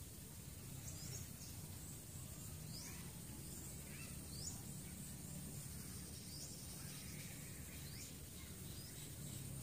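Faint, short high-pitched bird chirps, scattered irregularly, over a steady low outdoor hum.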